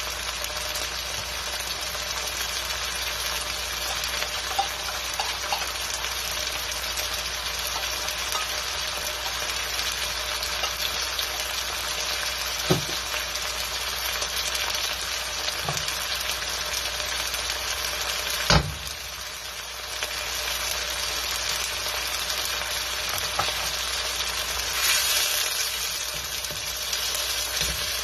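Sliced red onions sizzling steadily in hot oil in a carbon-steel wok, with two sharp knocks partway through, the second the louder. Near the end a wooden spatula stirs them, the sizzle getting brighter.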